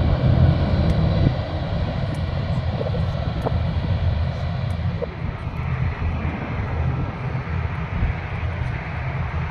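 Jet aircraft engines running, a steady loud rumble that eases slightly after about a second.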